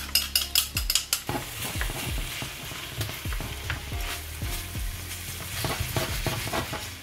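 Chicken, chouriço and peppers frying and sizzling in an enamelled steel paella pan while tongs stir and turn them, knocking against the pan. A quick run of clicks in the first second or so as freshly chopped garlic is scraped from a bowl into the pan.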